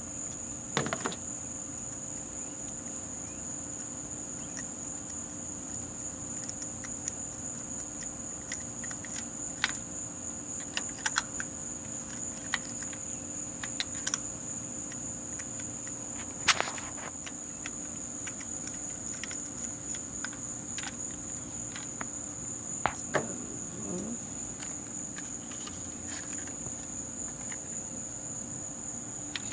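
Scattered clicks, taps and clinks of hand tools and spark-plug parts being handled in an engine bay during a spark plug and plug wire change, over a steady high-pitched whine and a low hum.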